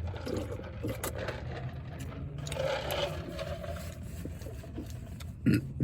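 A car engine running steadily at idle, a low even hum, with a short louder sound near the end.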